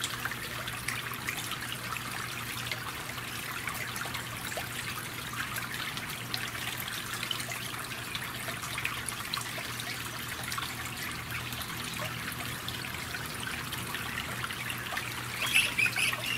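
Steady rain falling and dripping. A bird calls a few times in quick succession near the end.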